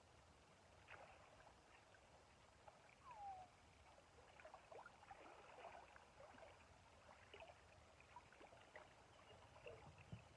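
Faint river water lapping and gurgling, with scattered small trickling sounds.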